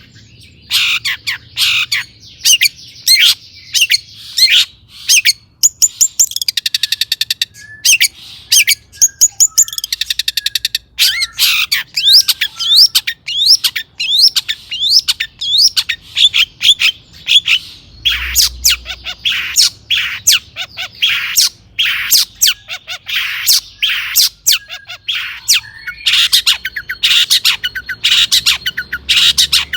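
Long-tailed shrike singing nonstop: a fast, varied string of sharp, harsh calls and chirps, broken up by rapid trills of quickly repeated notes around 6 to 7 seconds in and again near 9 to 10 seconds.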